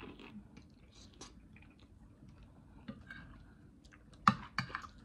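Close-up chewing and wet mouth clicks of someone eating cabbage curry, with a sharp clink of a metal spoon against the plate a little over four seconds in.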